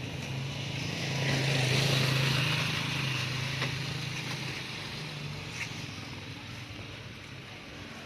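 A motor vehicle passing close by: its engine hum and road noise swell to a peak about two seconds in, then fade away.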